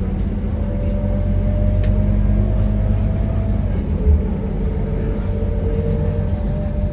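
Scania K230UB city bus under hard acceleration: a diesel engine drone with a thin whine that rises with speed. About three and a half seconds in the whine drops as the gearbox shifts up, then it climbs again.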